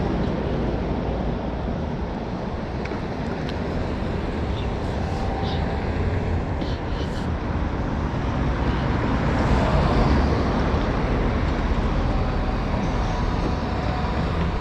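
Road traffic noise: a steady low rumble of passing vehicles, swelling to its loudest as one goes by about ten seconds in. A few faint short high chirps sound in the middle.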